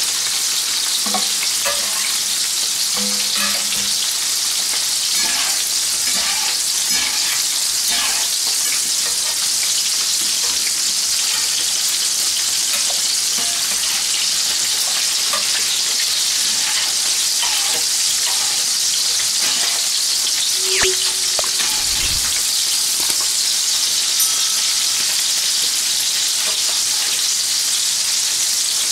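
Prawns and garlic cloves sizzling in olive oil in frying pans, a steady hiss. Scattered clicks and scrapes come from a fork and spatula turning and lifting the prawns.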